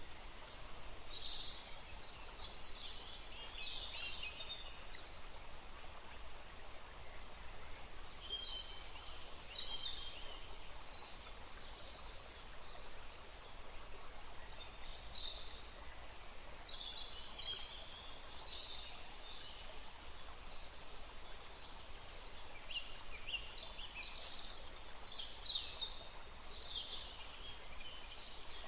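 Birds chirping and calling in several bouts of quick, high notes over a steady background rush of wind and water.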